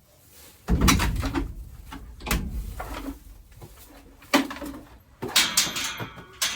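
Knocks and clatter of objects being handled, with a heavy low rumble of handling noise just under a second in and a cluster of sharp strikes near the end that ring briefly like metal.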